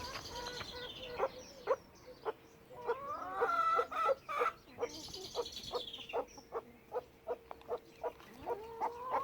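Domestic chickens clucking: a longer, bending call about three seconds in, then a run of short, quick clucks.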